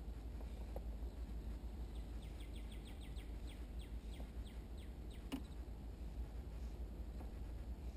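A songbird singing a run of about fifteen quick descending notes, roughly five a second, over a low steady rumble. A single sharp click about five seconds in.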